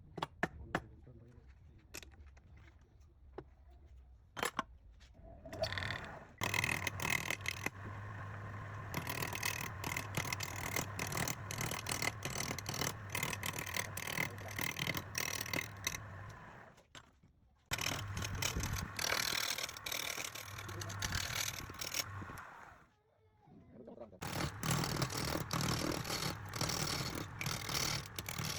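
Wood lathe running with a steady motor hum, overlaid by the scraping and clicking of a turning tool cutting the spinning wood. The sound drops out briefly twice.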